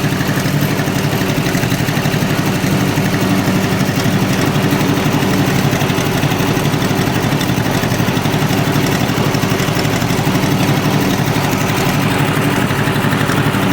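Tractor engine running steadily at an even speed while under way, with a rapid, regular firing beat.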